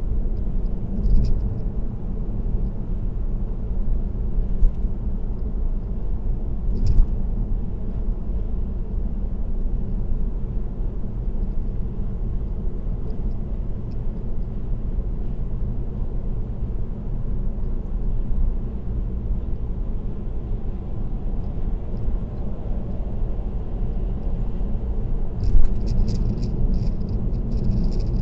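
Steady road and tyre noise of a car cruising on an expressway, a constant low rumble. A few sharp ticks come early, and near the end a light rattling starts and keeps going.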